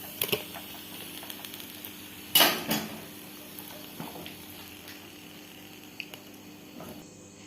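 Dishes and cutlery being handled: a couple of sharp clicks near the start, a louder clatter of two knocks about two and a half seconds in, then a few lighter knocks.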